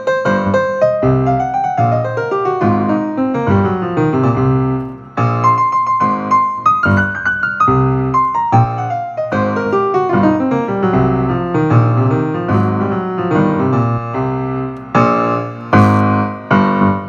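Piano music, quick runs of notes falling and rising over low chords, with a few heavy struck chords near the end.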